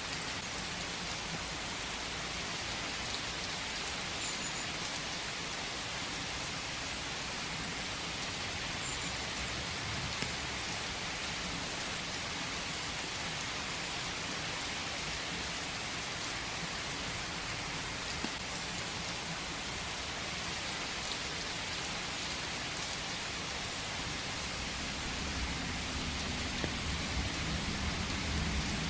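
Steady rain falling, an even hiss with a few faint drips, with a low rumble building near the end.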